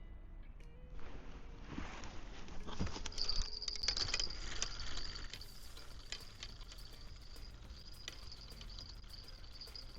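Rustling and handling noise as a fishing rod is grabbed after a bite. Then a spinning reel is wound in, with a steady high whir and irregular clicking.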